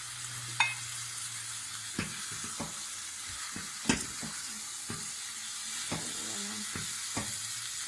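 Yogurt-marinated chicken pieces sizzling in a pan of caramelized onions as they are stirred, with a steady hiss and a utensil knocking and scraping against the pan every second or two.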